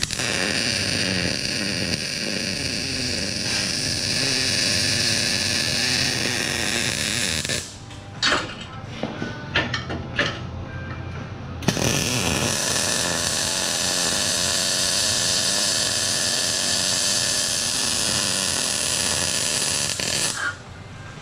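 MIG welding arc on steel tubing, a steady sizzling crackle held in two long beads of about eight seconds each. Between the beads come a few sharp clicks and knocks.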